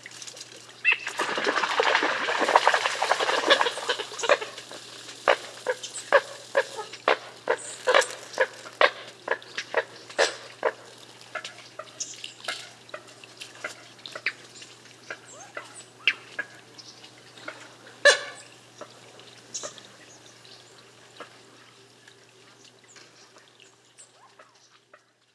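Coots on the water: a few seconds of splashing, then a run of short, sharp calls about two a second that grow sparser and fade out near the end.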